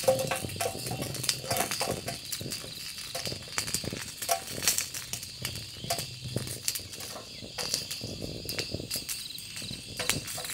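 Insects chirring steadily, with many irregular sharp crackles and ticks over them.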